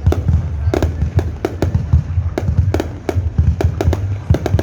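Fireworks going off in a rapid, irregular string of sharp bangs, about four a second, over a continuous low rumble.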